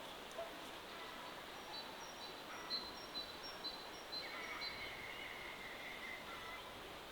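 Faint outdoor ambience: a steady hiss, with a series of short, high bird chirps through the middle and one longer held call.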